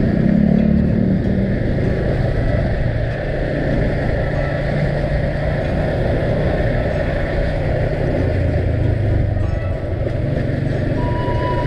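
A vehicle engine running steadily on the move, with road noise. Near the end a thin, steady high tone starts.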